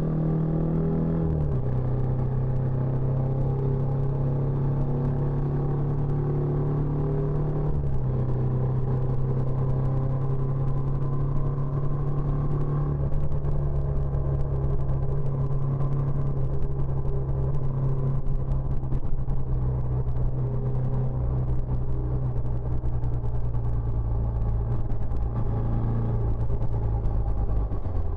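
Benelli Imperiale 400's air-cooled single-cylinder engine running through its stock exhaust at steady revs. The engine note steps down about a second and a half in and shifts again around eight seconds.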